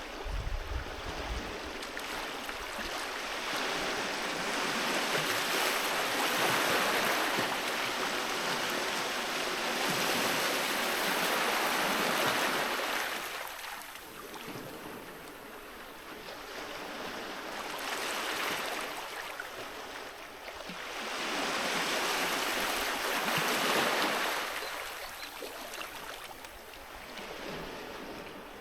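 Sea waves breaking and washing on a beach, a steady hiss that swells and eases as each wave comes in and draws back, with the strongest surges in the middle stretch.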